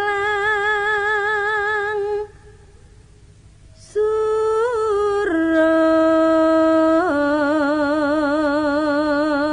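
A solo voice singing a slow Javanese tembang in long held notes with wide vibrato. One note is held for about two seconds, then after a short pause the voice returns and steps down through a falling line of sustained notes.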